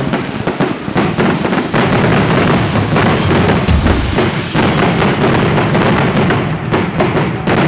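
Fireworks finale barrage: a dense, continuous run of crackling and bursts, with a deep boom about four seconds in. Near the end it thins into separate sharp cracks.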